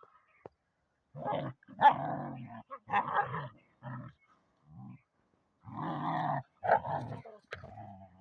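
A dog vocalizing in a run of about eight short bursts with gaps between them.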